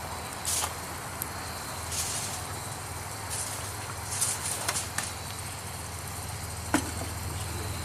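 Wood campfire hissing and crackling in short bursts over a steady low hum, with a sharp click near the end.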